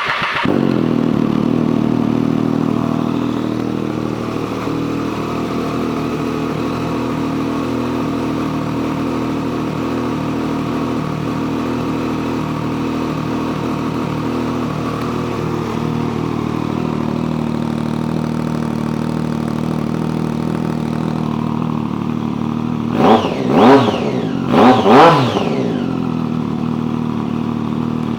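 2007 Triumph Daytona 675's inline three-cylinder engine, fitted with a custom exhaust, catching as it starts, running a little high at first and then idling steadily. Near the end it is revved with about four quick throttle blips, and it shuts off at the very end.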